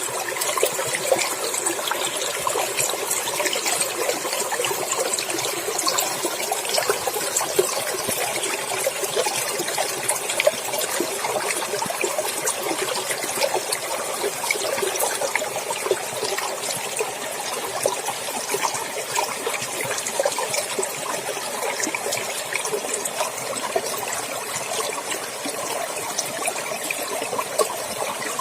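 Clear stream water running and splashing steadily, with many small splashes and gurgles throughout.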